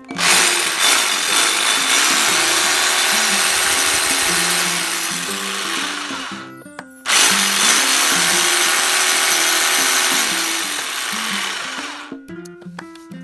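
Cordless power tool, an electric drill or impact driver, run in two long bursts, about six seconds and then about five, with a short break between them. Background music plays underneath.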